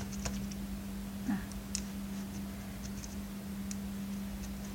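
Scattered light ticks and scrapes of a tool scratching a small piece of metal to bare it and check whether it is copper, over a steady low hum.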